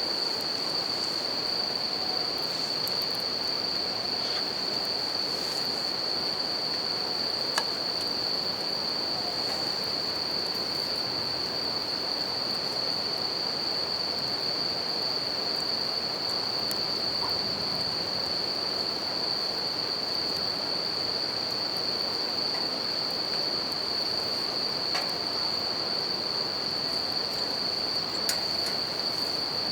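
Bell crickets (suzumushi) singing in one steady high tone over the constant rush of a river, with a few faint crackles from a wood campfire.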